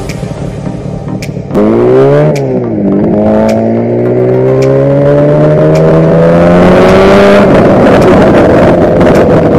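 Two-stroke 250 cc engine of a Gorilla minibike pulling away from a stop. It runs quietly at first, then about one and a half seconds in it revs up sharply and dips. It climbs steadily in pitch as the bike accelerates, then drops suddenly about seven seconds in, as at an upshift, and pulls on.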